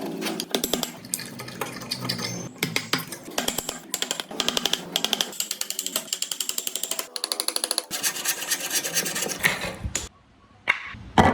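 Fast, repeated scraping strokes of a hand tool working wood, about five a second, in short runs. Near the end it cuts to quiet for a moment, then two sharp knocks.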